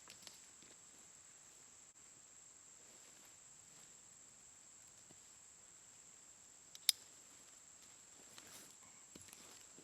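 Quiet, with a steady high-pitched whine throughout, a few soft rustles, and one sharp click about seven seconds in.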